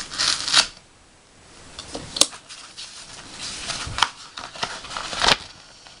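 A paper envelope being slit open with a letter opener: a burst of paper rustling, then quieter scraping and rustling with three sharp clicks.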